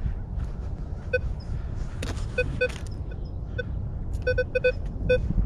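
Minelab Vanquish 440 metal detector giving short, identical low-pitched target beeps as it is swept over a target, single at first, then in quick runs of two to four near the end. A steady low rumble runs underneath.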